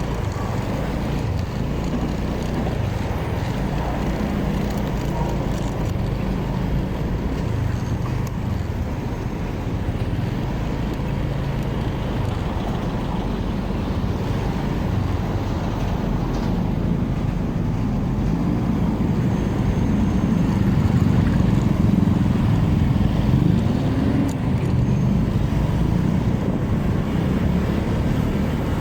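Motorcycle engine running on the move, with road traffic around it; the engine gets a little louder and higher in pitch about twenty seconds in.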